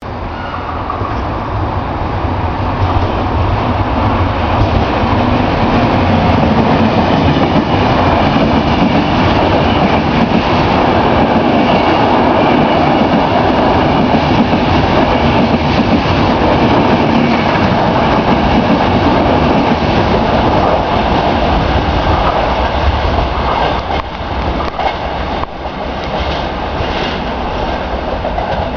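Passenger train hauled by an E.402B electric locomotive running through a station without stopping. The noise builds over the first few seconds and then holds loud and steady, with wheels clattering over rail joints, most clearly near the end.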